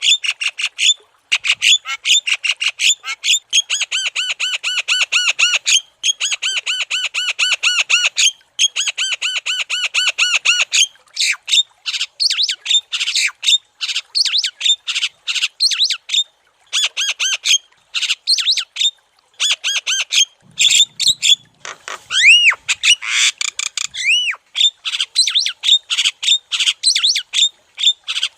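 Javan myna (jalak kebo) singing in full voice: a rapid, continuous chatter of quickly repeated notes in runs a couple of seconds long, with two rising whistles about three-quarters of the way through.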